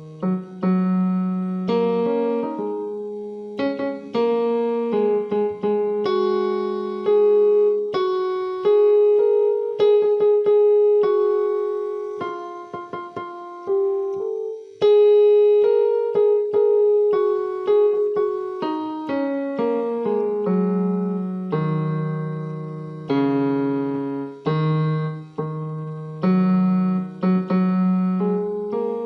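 Background music: a slow solo piano piece, notes struck and left to ring in gentle melody over low sustained chords.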